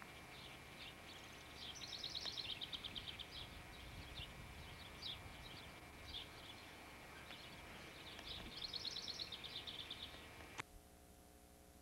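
A songbird singing outdoors: two rapid trills of about two seconds each, with scattered short chirps between them, and a sharp click near the end.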